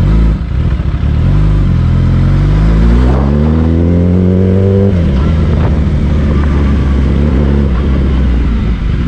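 Motorcycle engine accelerating, its pitch climbing steadily for about three and a half seconds, then dropping abruptly about five seconds in. After that it runs on at a steady lower pitch.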